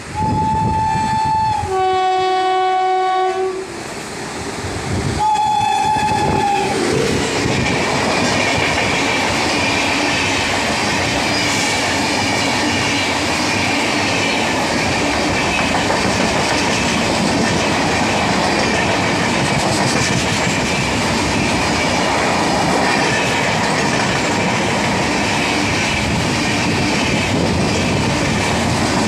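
WAP7 electric locomotive's horn sounds a high note and then a lower one for about three seconds, and a short high note again about five seconds in. Then the coaches roll slowly past, with a steady rapid clickety-clack of wheels over rail joints and a high whine running under it.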